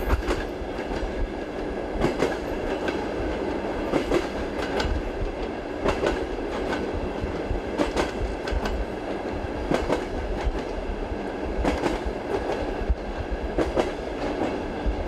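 Train running on the rails: a steady rumble with the wheels clacking over rail joints, the clacks coming in pairs about every two seconds.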